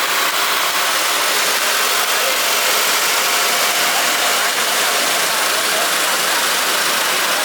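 6N2022-9FC21R mini rice mill running steadily while milling, a loud even whirring hiss that does not change.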